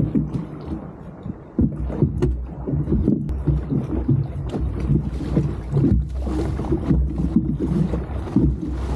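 Wind rumbling and buffeting on the microphone aboard a small boat on the water, with a few sharp knocks about two and three seconds in.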